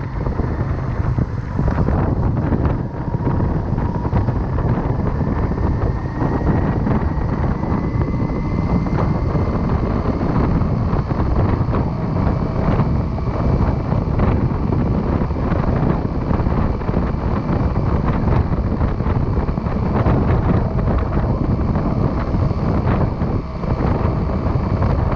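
Motorcycle riding at speed: a steady rush of wind buffeting the chest-mounted camera's microphone over the engine, with a faint whine that rises slowly in pitch about six to ten seconds in.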